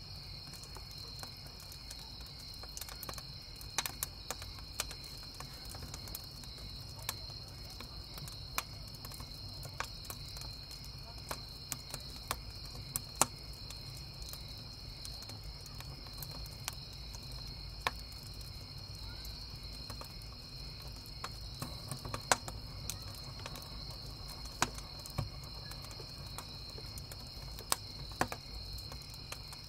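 Crickets chirping in a steady high band, with a wood campfire crackling in sharp, irregular pops throughout.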